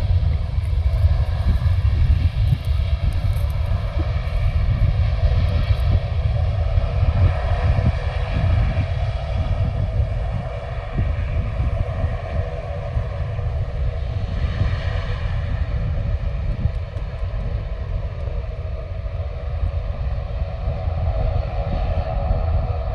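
Jet aircraft engines running, a steady deep rumble with several steady tones above it. It eases a little after about ten seconds and swells again near the end.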